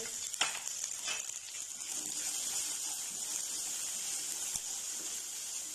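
Green chillies and crushed peanuts sizzling steadily in hot oil in a non-stick kadhai while a silicone spatula stirs them, with a couple of light knocks in the first second.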